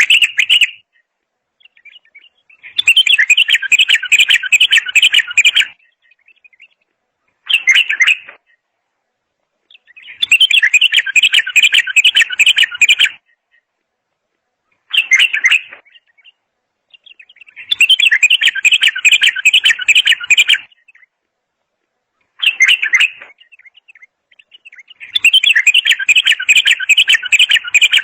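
Bulbul singing in a regular pattern: a short phrase of about a second, then a longer run of rapid notes lasting about three seconds, repeating roughly every seven and a half seconds with brief pauses between.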